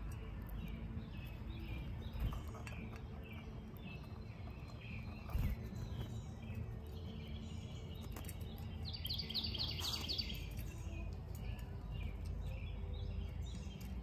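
Wild birds chirping and calling, with a quick bright run of high notes about nine seconds in, over a steady low background hum. Two short low thumps come earlier.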